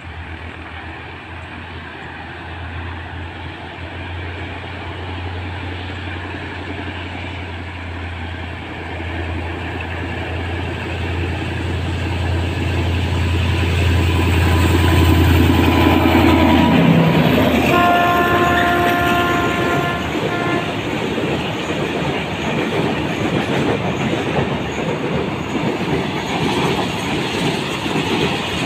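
Diesel locomotive of a freight train approaching with its engine drone growing louder, dropping in pitch as it passes about two-thirds of the way through. Just after it passes, the horn sounds one chord-like blast of about two and a half seconds, and then the long string of freight wagons rolls by with a steady clatter of wheels over the rail joints.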